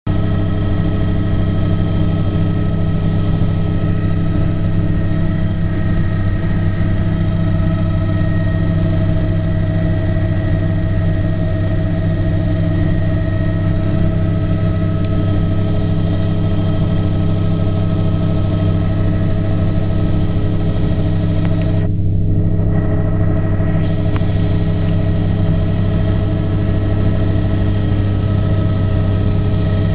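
Aircraft engine running steadily: a constant low hum with a stack of unchanging tones above it. The higher part of the sound briefly dips for about two seconds roughly three-quarters of the way through.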